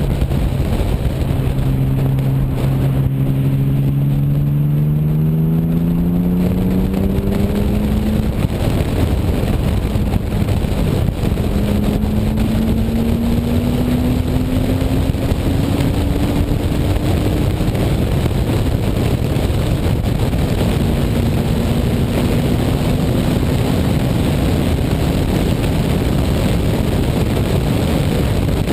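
1998 BMW E36 M3's straight-six engine accelerating down the track, its note climbing slowly for several seconds, dropping back, then climbing again twice, under heavy wind rush on the outside-mounted microphone.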